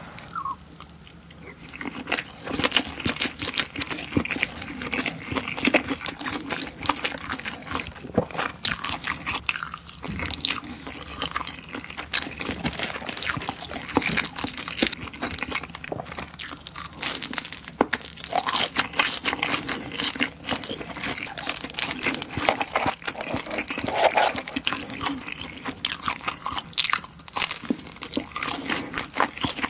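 Close-miked mouth sounds of chewing spicy tteokbokki, tuna-mayo rice ball and wide glass noodles: a dense, irregular run of wet clicks and smacks.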